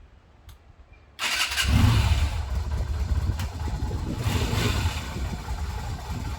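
Yamaha Virago 250's V-twin motorcycle engine started from cold: a couple of faint clicks, then about a second in the starter turns it over briefly and it catches, running with two swells of throttle.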